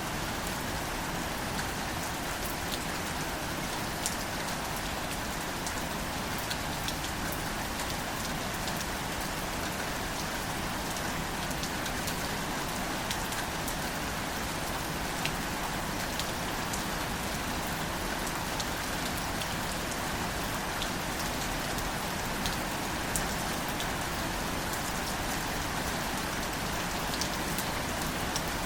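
Steady, gentle rain falling, with many scattered close drops ticking sharply.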